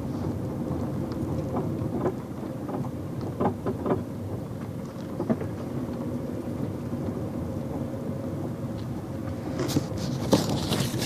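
Fiat Stilo 1.6 16v with a steady low rumble and a faint constant hum, broken by scattered short knocks and a louder burst of clicks and rattles about ten seconds in. It carries the unidentified noise from the front of the car that the owner is asking about.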